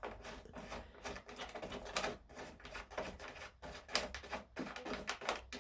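Irregular run of small metallic clicks and taps, several a second, as the nuts holding the air filter cover of a Briggs & Stratton twin engine are turned.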